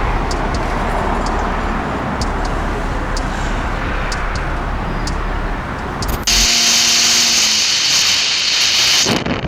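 Road and wind noise from a moving vehicle, with a steady low rumble. About six seconds in it switches abruptly to a loud hiss of wind on the microphone, with a brief low pitched tone for about a second.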